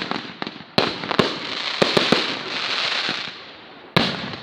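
Fireworks display: sharp bangs of shells bursting, a dense crackle from about a second in to past three seconds, and another loud bang near the end.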